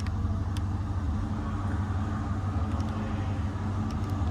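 Steady low mechanical hum with a droning undertone and a faint wash of room noise.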